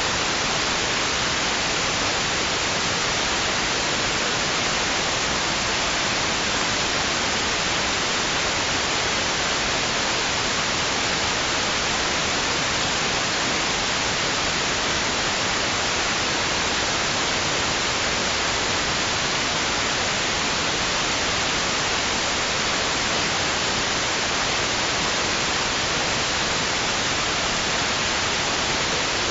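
Steady white noise: an even, unchanging hiss, brightest in the treble, with no rise and fall of waves.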